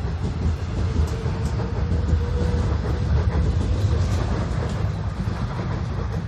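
A Korail Class 351000 electric multiple unit departing, its cars rolling past with a steady low rumble of wheels on rail, a faint steady motor whine in the first half.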